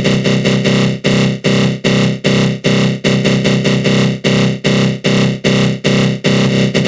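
Synthesized 'attack growl' sound effect: a dense synth tone swept by a flanger, pulsing about two and a half times a second, the pulses quickening and flattening out near the end.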